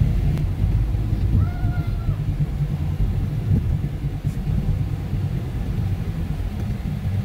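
2009 Dodge Journey being driven, its engine and tyres making a steady low rumble.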